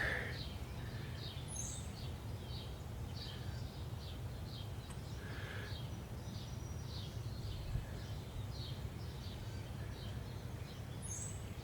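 A bird chirping repeatedly, short high calls about two or three a second, over a steady low hum.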